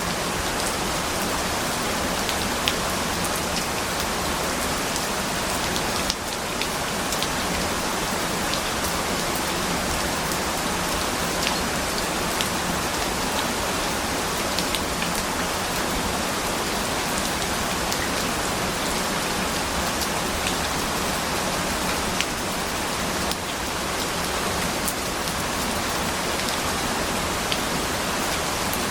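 Steady rain falling, an even hiss with scattered sharp drop ticks on a surface. The level dips briefly twice, about six seconds in and near two-thirds of the way through.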